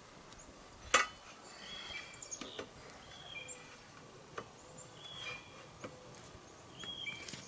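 Birds chirping in short, high calls now and then, with one sharp knock about a second in and a few lighter clicks, as of boards or tools being handled.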